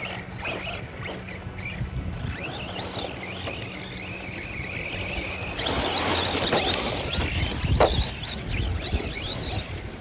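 Electric RC car motors whining, the pitch rising and falling as the cars speed up and slow down, with a louder rush of noise for a couple of seconds around the middle and a single sharp knock about eight seconds in.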